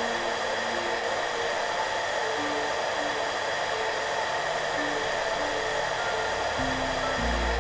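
Hair dryer running steadily, an even whooshing hiss without change. Soft background music plays faint short notes beneath it, and a low bass note comes in near the end.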